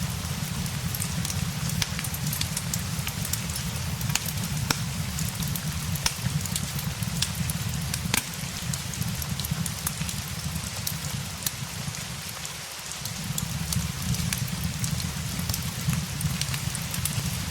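Steady rain mixed with a crackling fireplace: a constant hiss of rain with scattered sharp pops and crackles over a low rumble, which fades briefly about twelve seconds in.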